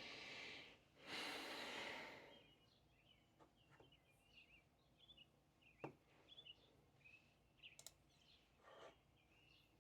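A person's long sigh in the first two seconds, then faint chirping birds with a few light clicks.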